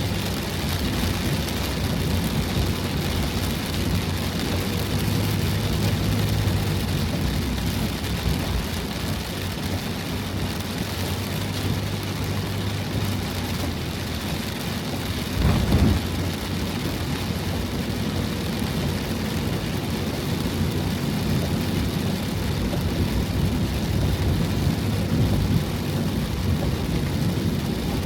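Heavy typhoon rain and wind beating on a van's body, heard from inside, as a steady loud rush over a low rumble. There is a brief louder thump about halfway through.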